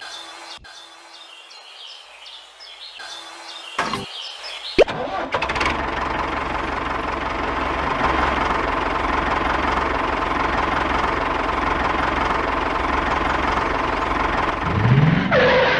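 Toy tractor's engine noise starting suddenly about five seconds in and running steadily as it pulls a trolley, with a faint steady whine through it. Faint bird chirps come before it starts.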